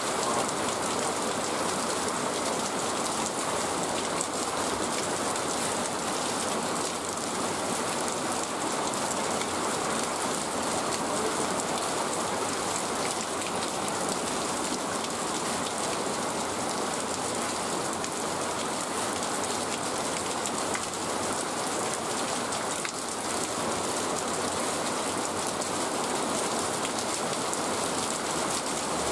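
Steady rain falling on wet ground and puddles.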